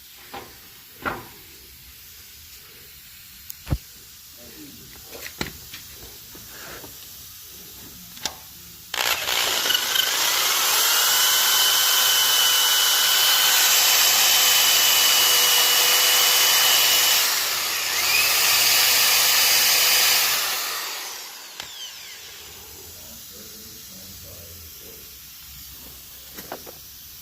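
A few light knocks, then a power drill spins up with a rising whine and runs for about ten seconds, easing off briefly and speeding up again before it stops. It is drilling out a stuck factory rivet holding a lower ball joint, using a 5/16 bit.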